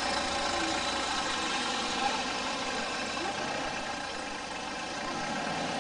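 Toyota Land Cruiser 4x4's engine idling steadily.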